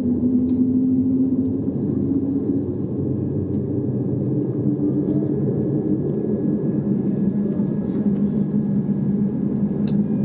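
Boeing 787-8 airliner engine and airframe noise: a steady low rumble with a humming tone that drifts slightly in pitch.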